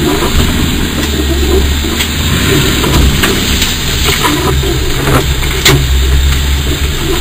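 Range Rover Classic's engine running hard under load as it struggles up a steep muddy bank and fails to get over a pipe, with a sharp knock about five and a half seconds in.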